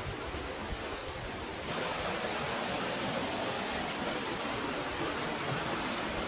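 Steady rushing of a beck's flowing water. It gets louder and brighter about two seconds in.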